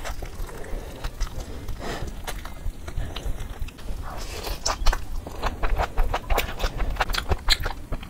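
Close-miked eating: chewing and biting fried chicken and then mouthfuls of a rice and vegetable dish, full of short wet mouth clicks and smacks that come thickest in the second half.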